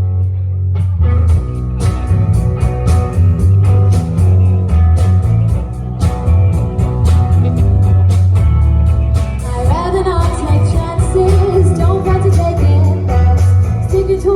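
A band playing a song live with a steady drum beat. A singer's voice comes in about two-thirds of the way through.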